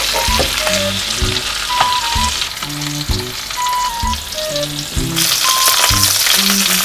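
Butter-topped lobster halves sizzling in a hot pan. The sizzle gets louder about five seconds in.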